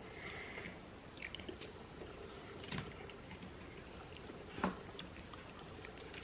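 Faint eating sounds at a table: quiet chewing with a few scattered soft clicks and taps, the loudest a little before the end.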